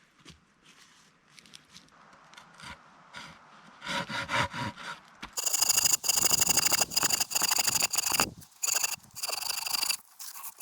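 A blade cutting into a dry, seasoned log: a few seconds of soft scraping, then from about halfway fast, loud rasping strokes with a high squeal, in runs broken by short pauses.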